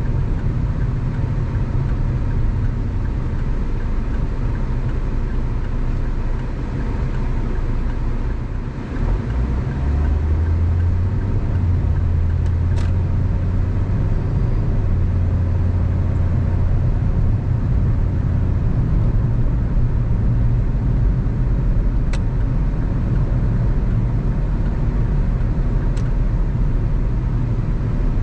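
Car driving on the road: a steady low engine drone under tyre and road noise. The engine note dips about nine seconds in, then comes back stronger and holds for several seconds, as under acceleration. A few faint ticks are heard later on.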